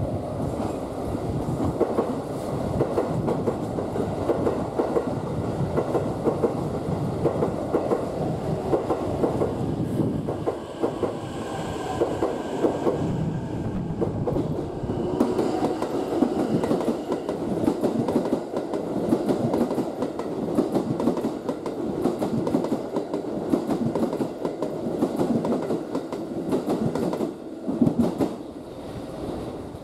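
Keikyu train running on the rails, a steady rolling rumble with wheels clicking over rail joints.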